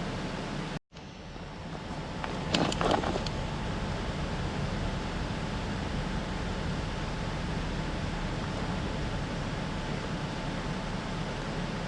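Steady rushing murmur of a small stream. It cuts out for an instant about a second in, then fades back, and a few light clicks come around three seconds in.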